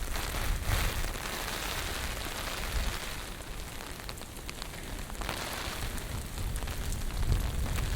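Typhoon rain hissing steadily on the pavement, with strong wind gusting; near the end a gust buffets the microphone with a low rumble.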